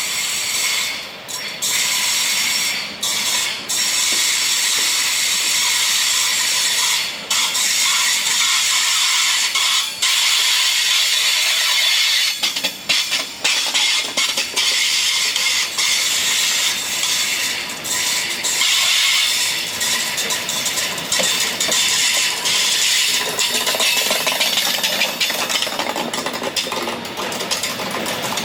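Passing train's wheels grinding and squealing on the rails, a loud, continuous, harsh high-pitched rasp with brief dips.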